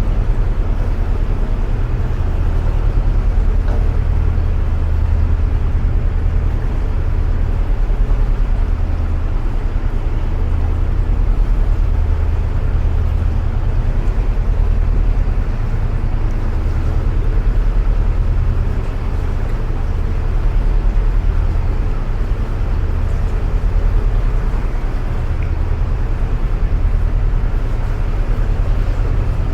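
A narrowboat's engine running steadily at cruising speed inside a canal tunnel, a loud, low, even throb.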